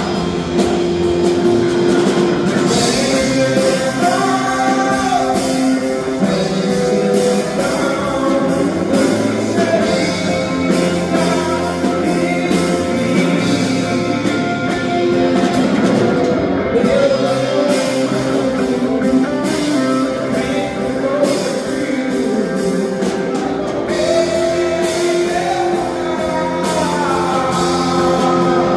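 A live worship band playing a song with drum kit and guitars, at a steady beat.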